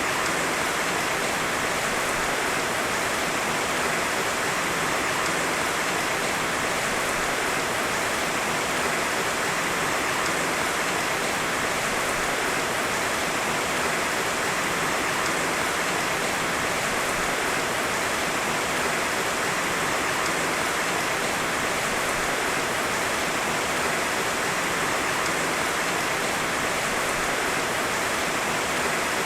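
Heavy rain falling in a steady, dense hiss with no thunder.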